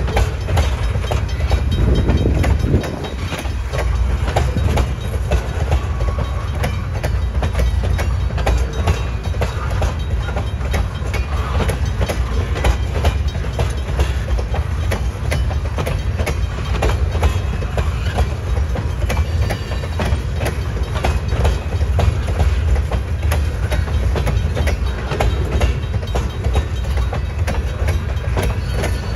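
Freight train of tank cars rolling past close by: a steady low rumble of steel wheels on the rails, with frequent clicks and clacks.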